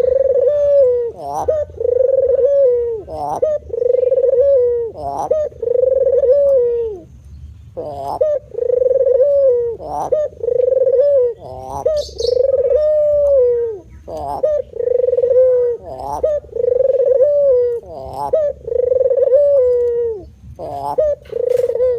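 Male puter (Barbary dove) cooing over and over in full song. Each coo is a short rising note followed by a long, steady low note, about one every two seconds, with one short break about seven seconds in.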